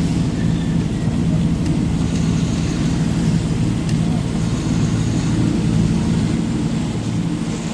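Truck engine running steadily as the truck is driven, a constant low droning hum with road noise.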